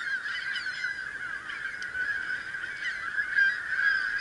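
A large colony of gulls and terns calling all at once: a dense, unbroken chorus of many overlapping short cries.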